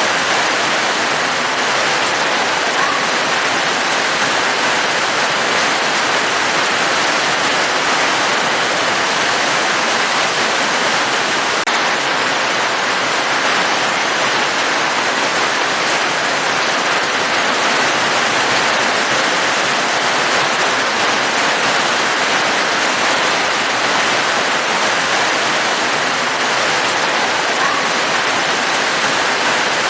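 Steady, even rain hiss with no breaks or changes.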